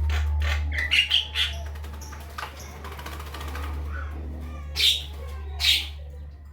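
Javan myna giving short, harsh calls over a steady low hum. A quick run of three comes about a second in, and two louder calls come near the end.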